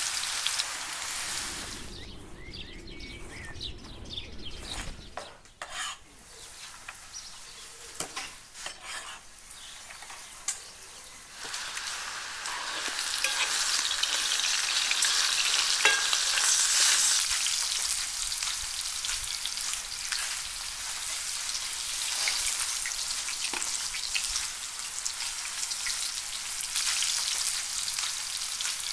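Food sizzling as it fries in hot oil in a pan. It drops to a quieter stretch with a few scattered clicks and knocks, then from about twelve seconds in turns to loud, steady sizzling.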